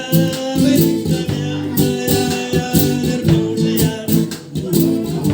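A song performed live: a guitar strummed in a steady rhythm, with a man singing over it.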